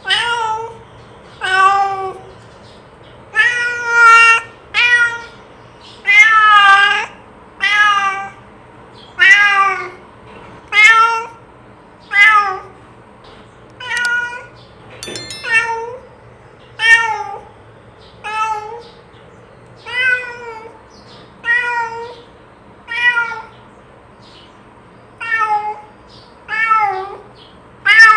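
Domestic cat meowing over and over, about twenty calls, one every second or so, each a short meow that rises and falls in pitch.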